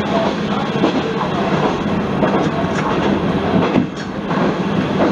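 Isumi Railway diesel railcar running along single track, heard from on board: a steady engine and rolling noise, with the wheels clacking over rail joints now and then.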